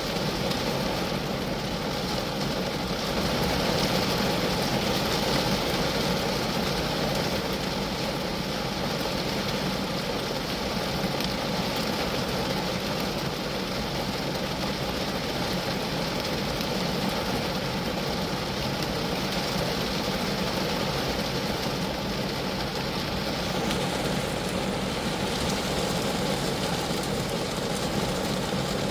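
Steady rain falling on a small car (a Geo Metro), a dense, even patter of drops on its metal and glass.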